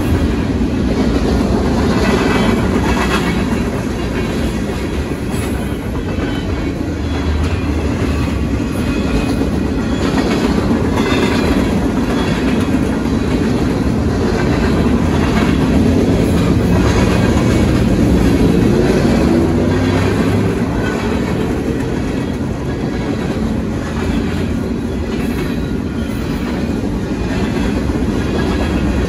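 Freight train cars rolling steadily past: continuous wheel-on-rail noise, with wheels clicking irregularly over the rail joints and crossing.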